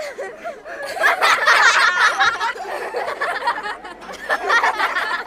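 People laughing and giggling, with louder bursts of laughter about a second in and again near the end.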